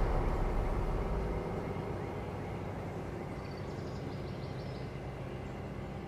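Rumbling tail of an explosion sound effect: a deep boom dies away, heaviest in the low end for the first second and a half, then fading slowly into a steady noisy hiss.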